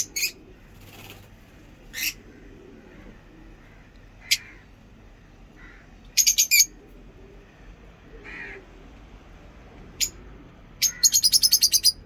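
Lovebirds chirping: short, sharp, high-pitched calls, single ones here and there, a quick cluster of four about six seconds in, and a rapid run of about ten near the end.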